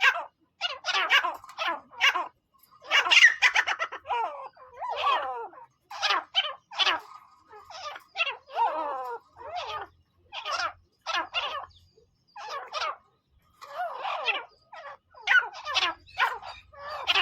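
Teetar (francolin) calling: a quick series of short, harsh call notes whose pitch bends up and down, one after another with brief gaps between them.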